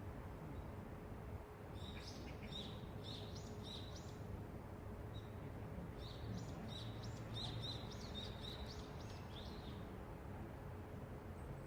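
Small birds chirping in two clusters of quick high notes, the first about two seconds in and the second from about six to nine and a half seconds, over a steady low city rumble.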